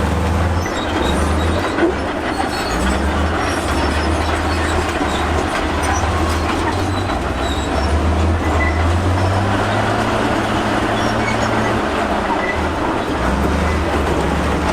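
Crawler bulldozer's diesel engine running steadily under load, with its steel tracks clanking and squealing.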